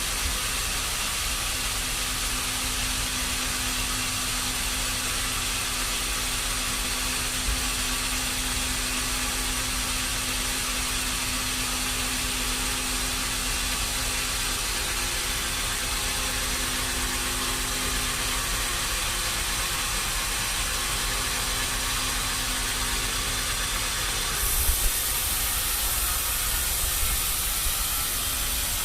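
Sawmill machinery running steadily with a hissing noise and a low hum. About three-quarters of the way in, the hiss turns brighter and a couple of short knocks are heard.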